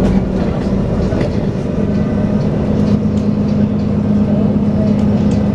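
Dennis Trident 2 double-decker bus heard on board while running, with the steady vacuum-cleaner-like drone that enthusiasts call 'hoovering'. The drone firms up about two seconds in, over a low rumble and a few faint rattles.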